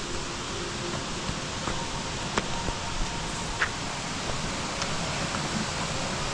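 Steady hissing outdoor background in tropical forest, with a few scattered light clicks.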